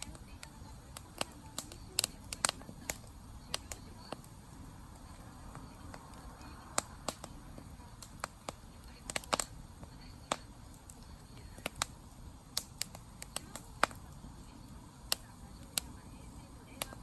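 Wood campfire crackling: irregular sharp pops and snaps, about one or two a second, over a low steady background of the burning fire.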